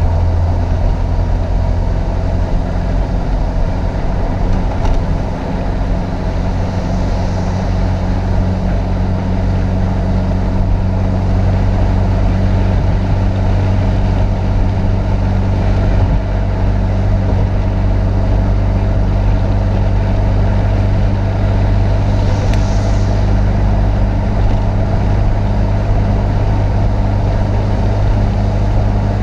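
Chevrolet Opala Comodoro's four-cylinder petrol engine running under steady load, its drone holding an even pitch. A brief hiss comes over it twice, about seven seconds in and again past twenty-two seconds.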